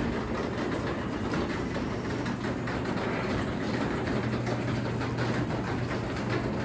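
Craftsman 3/4 hp belt-drive garage door opener running as it opens the door: a steady motor hum with a rumbling drive.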